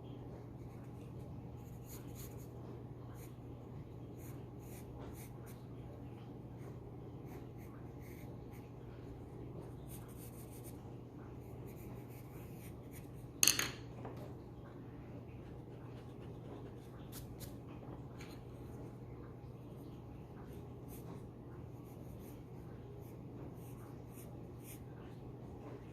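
Pencil scratching on paper in short, uneven strokes, over a steady low hum. One sharp click about halfway through is the loudest sound.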